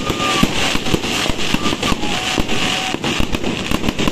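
Aerial fireworks launching and bursting overhead in a rapid barrage: loud bangs and crackling, several reports every second without a break.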